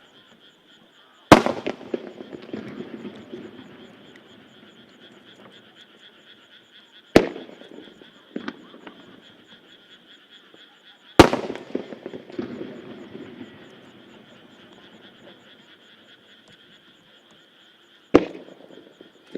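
Aerial firework shells bursting one at a time: four loud booms several seconds apart, with a smaller bang between the second and third, the first and third followed by long crackling, rumbling tails.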